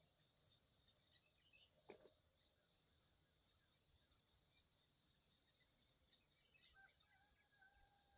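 Near silence, with a faint, steady high insect trill like crickets, and a single faint click about two seconds in.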